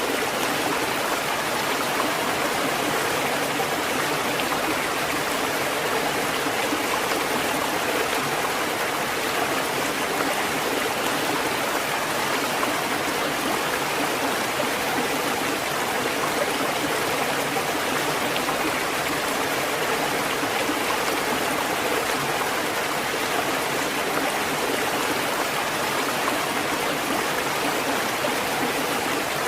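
Steady rushing water, an even hiss and splash that holds at one level without rising and falling in swells.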